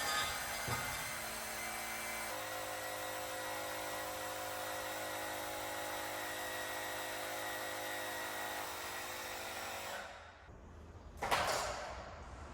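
Small electric tire inflator running with a steady whine while it pumps up a leaking motorcycle rear tire; its note shifts slightly about two seconds in. It stops about ten seconds in, followed a second later by a short burst of hiss.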